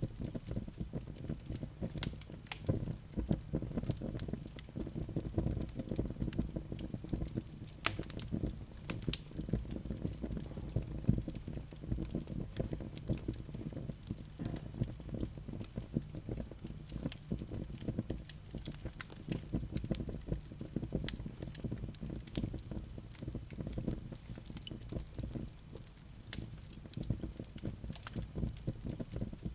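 Wood fire burning in a fireplace: a steady low rumble of flames with dense, irregular crackles and pops from the burning wood.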